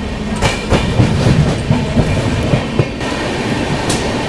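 Passenger train running, heard from on board: a steady rumble with the wheels clicking irregularly over rail joints, the clicks thickest in the first three seconds and thinning near the end.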